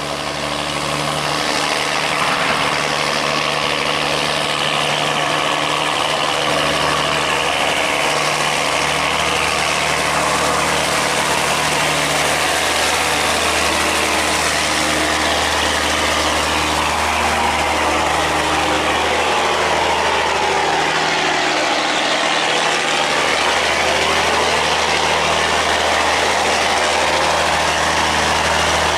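Diesel engine of a heavily loaded river barge running steadily, with a broad rushing noise over it.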